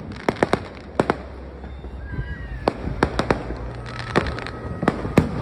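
Fireworks going off: a string of sharp, irregularly spaced cracks and bangs, with a thin whistling tone heard twice in between.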